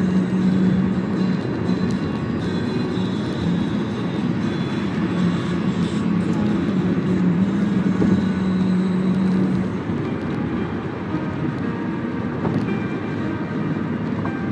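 Toyota Camry 2.4 driving, with steady engine and road noise. A low drone runs until about ten seconds in, then drops away.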